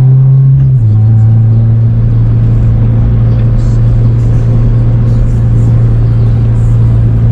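Car engine running at a steady low drone. Its pitch drops once, about a second in, as at a gear change, then holds steady.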